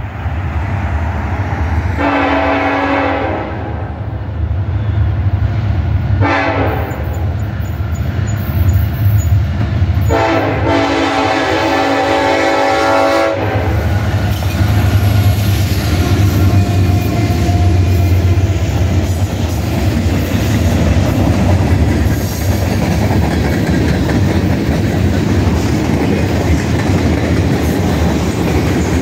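Freight train led by an EMD SD70AH diesel locomotive sounding its horn for a grade crossing: a long blast, a short one and a long one. From about halfway in, the locomotives' diesel engines rumble past, followed by freight cars rolling by with wheels clattering over the rail joints.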